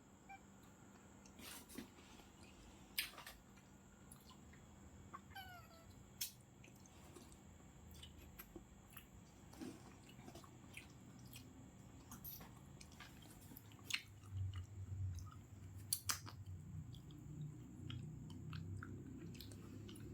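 A cat chewing food, faint, with scattered sharp crunching clicks.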